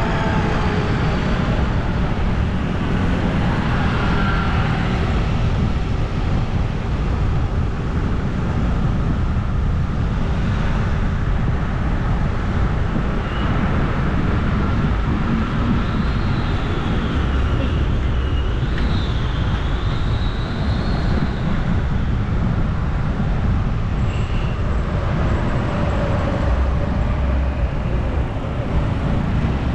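Steady wind rush on the microphone and road noise from riding a bike along a road. A brief high, warbling tone rises and falls about two-thirds of the way through.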